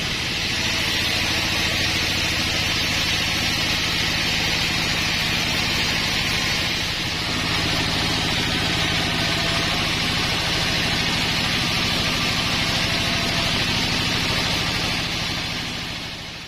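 Sawmill running steadily while sawing a pine log: an engine with a hiss over it, fading out near the end.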